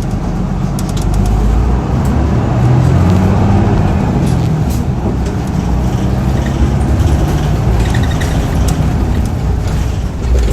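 Hino Blue Ribbon II city bus's turbocharged diesel engine running under way at high revs, heard from inside the bus, its pitch drifting gently up and down.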